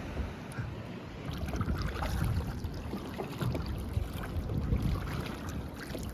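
Wind rumbling and buffeting on the microphone in gusts, with water splashing and lapping.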